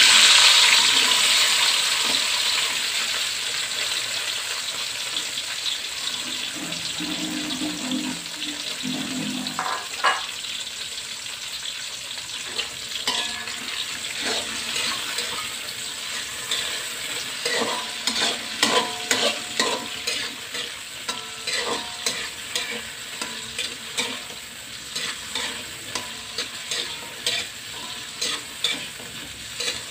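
Sliced chillies, tomatoes, shallots and garlic hit hot oil in a metal wok with a loud sizzle that slowly dies down. Then a metal spatula scrapes and clinks against the wok in repeated strokes as they are stir-fried for sambal.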